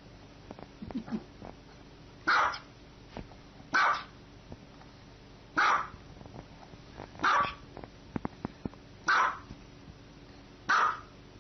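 A dog barking: six single loud barks at a slow, even pace, one every one and a half to two seconds, with a few faint ticks between them.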